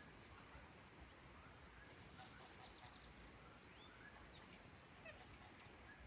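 Faint countryside ambience: scattered short chirps and calls of distant birds over a steady high hiss.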